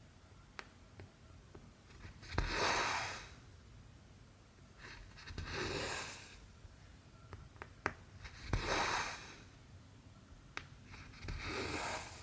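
Needle going through cross-stitch fabric and the cotton thread being drawn through it with a swish, four times about three seconds apart, each pull sometimes led by a sharp tick, with light clicks of the needle between.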